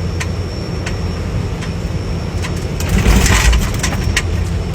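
Boeing 737 rolling out on the runway just after touchdown: a steady low rumble of engines and wheels with scattered rattling clicks, and a louder rush about three seconds in.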